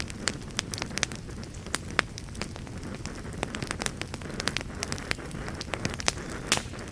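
Campfire burning, with a low steady rush under frequent irregular crackles and sharp pops of the wood, a few louder snaps about two seconds in and near the end.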